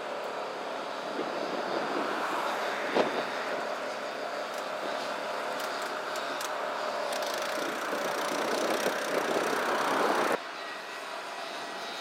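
Gusting wind: a rushing noise that swells and eases, with one sharp knock about three seconds in. The noise drops off suddenly near the end.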